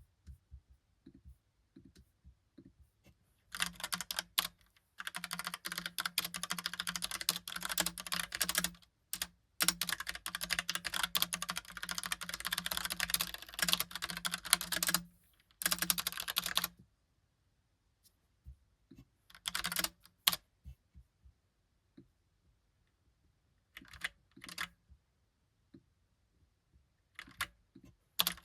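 Typing on a Logitech POP Keys typewriter-style mechanical keyboard: a fast, continuous run of key clacks from a few seconds in until about halfway, with a couple of brief pauses, then scattered short bursts of keystrokes with gaps between them.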